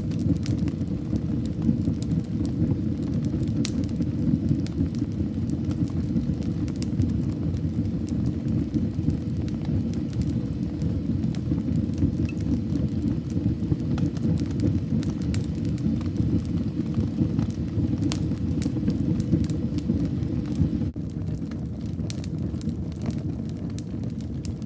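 Wood fire burning in a fireplace: a steady low rumble of flames with scattered sharp crackles and pops throughout. About three-quarters of the way through, the sound drops a little quieter.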